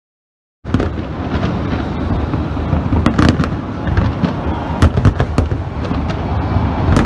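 Fireworks display: a dense low rumble of booms packed with sharp crackles and pops, cutting in abruptly about half a second in.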